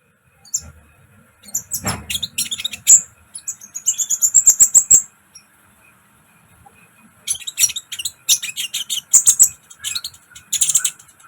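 Konin bird calling in rapid runs of sharp, high chirps: one run from about a second and a half in, then a pause, then another run from past the middle on.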